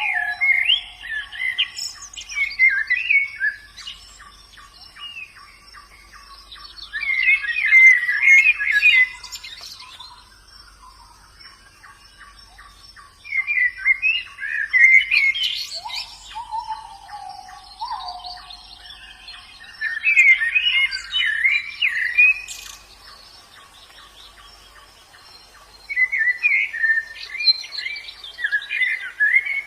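White-eyes (pleci) singing: bursts of rapid, high twittering warbles a couple of seconds long, about every six seconds. A lower sliding call comes twice, and a fast, even ticking fills the gaps between the bursts.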